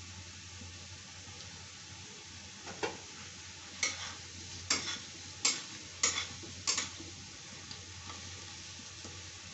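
A metal slotted spatula scrapes and stirs potato chunks frying in oil in an iron kadhai, with about six scrapes between three and seven seconds in, over a steady sizzle.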